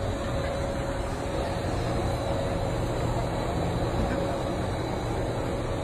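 Steady street and vehicle noise with a low rumble and a faint steady hum.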